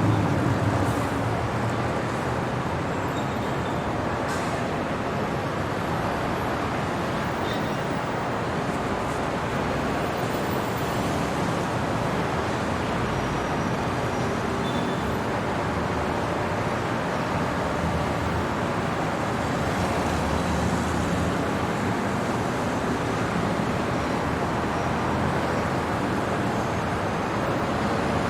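Steady city traffic noise: a continuous wash of road vehicles with a low rumble, a little louder at the very start.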